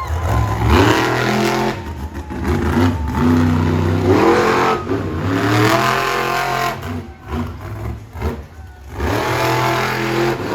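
Monster truck engine revving in repeated surges, its pitch climbing and falling, with a short lull about three-quarters of the way through.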